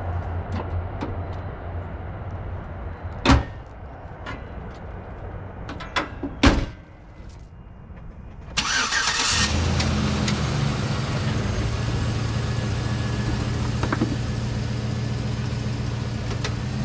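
A slam about three seconds in and a couple of thumps around six seconds, as the hood and then a door are shut. About eight and a half seconds in, the truck's 5.3-litre V8 cranks and catches, then settles into a steady idle. This is its first start after an oil change, run to check for leaks.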